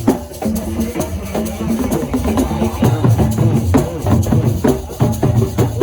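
Assiko music: drums and percussion playing a fast, steady rhythm.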